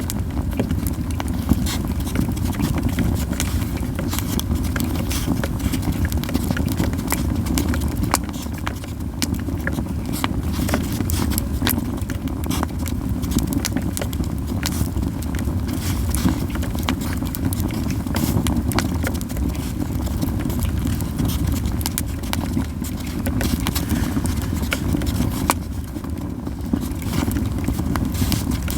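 Yew-wood campfire crackling with frequent sharp, irregular pops and snaps over a steady low rumble.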